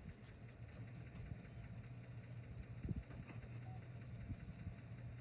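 Chevrolet Suburban engine idling as it creeps along towing a chicken coop on dolly wheels: a faint, steady low hum. A few light knocks sound over it, the clearest about three seconds in.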